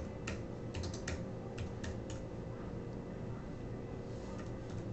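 Typing on a computer keyboard: scattered keystrokes in short, uneven runs with pauses between.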